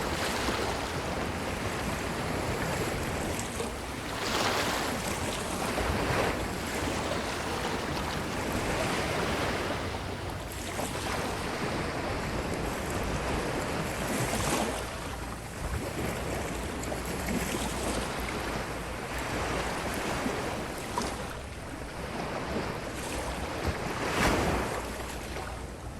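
Ocean waves washing over the shore: a continuous wash with a wave surging and breaking every few seconds, the loudest near the end.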